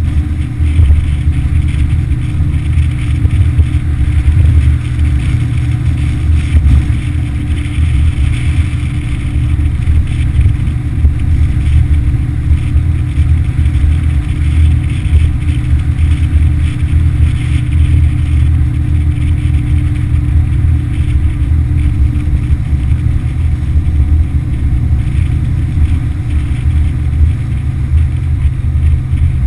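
Yamaha F60 four-stroke outboard motor running steadily at speed, its note dipping slightly near the end.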